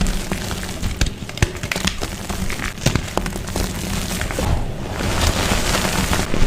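Soft blocks of dyed gym chalk being crushed and crumbled, a dense crunchy crackle full of small sharp snaps, with a low thudding rumble underneath.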